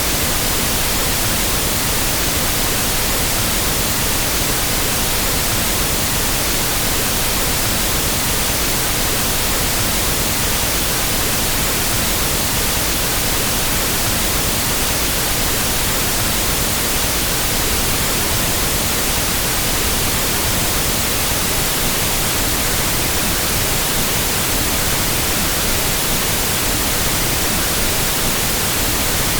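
Pink noise test signal for equalizing a sound system: an even, unchanging hiss across all pitches, with no tones or breaks.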